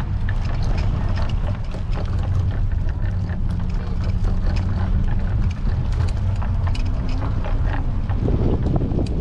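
Wind buffeting an action camera's microphone while riding a bicycle: a steady, loud low rumble with light scattered ticks above it.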